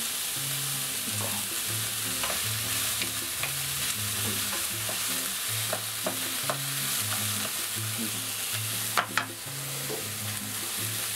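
Chopped onion, garlic and mushrooms sizzling as they sauté in a frying pan, stirred with a spatula that scrapes and taps against the pan. There are two sharp knocks about nine seconds in.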